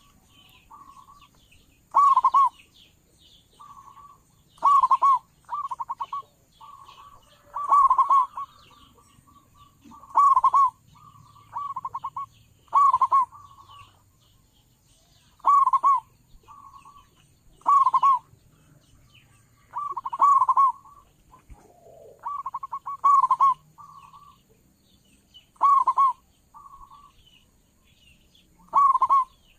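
Zebra dove (perkutut) cooing: a loud rolling coo comes about every two and a half to three seconds, with softer, shorter coos between. Small birds chirp faintly behind it.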